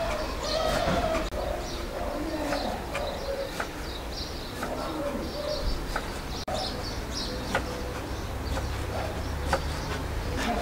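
Birds calling: low wavering coos in the first few seconds and short high chirps throughout, with a few light clicks.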